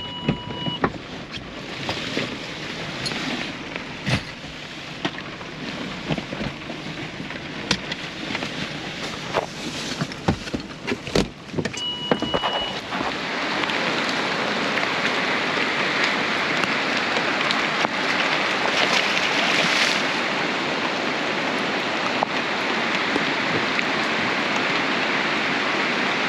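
Heavy rain hissing steadily, much louder from about halfway through. Before that come scattered knocks and a short electronic beep, twice.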